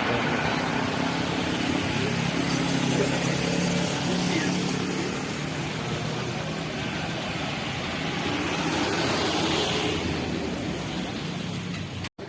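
Jet airliner engines, a steady rush that slowly fades.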